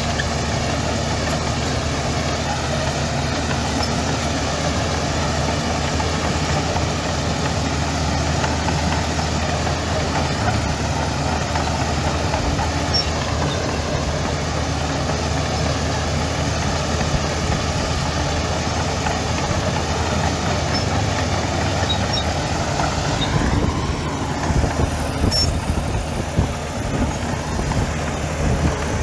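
Heavy diesel engine of earthmoving machinery running steadily, with a rise in pitch near the end.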